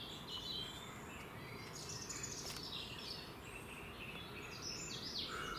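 Birds chirping and singing in short, scattered calls over a steady background hiss.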